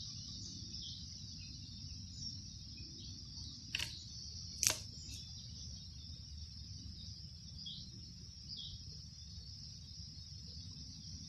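Steady high-pitched insect drone over a low outdoor rumble, with two sharp clicks about four and five seconds in, the second the loudest, and a few faint chirps later.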